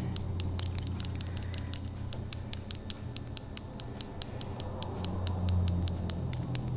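Fast, even ticking, about six to seven clicks a second, over a steady low hum.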